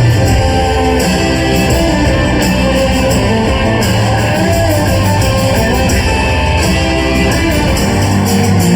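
Live rock band playing loudly, with guitars over bass and drums.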